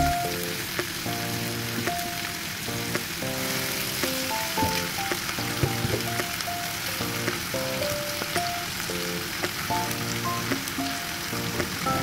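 Milkfish pieces with tomato and onion sizzling as they fry in an oiled wok, with a few sharp clicks as pieces are moved in the pan. Light background music with a melody of short notes plays over it.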